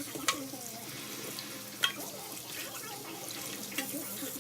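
Kitchen tap running while meat is washed under it, with two sharp clicks, one near the start and one a little under two seconds in.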